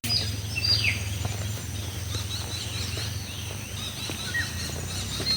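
Rural hillside ambience: birds calling, with two downward-sliding whistles in the first second and a run of short chirps midway, over a steady high insect drone and a low steady hum.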